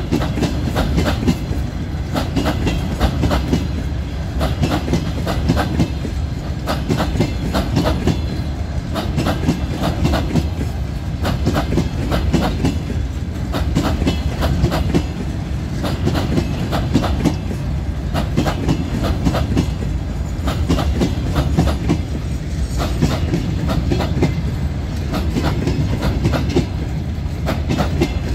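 Freight train of open gondola wagons rolling past close by: steel wheels clattering over the rail joints in a dense run of knocks and clicks over a steady low rumble.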